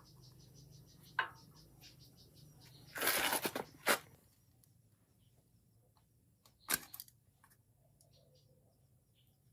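A few sharp knocks and a short scraping rustle about three seconds in, over a faint low hum that fades out about halfway through.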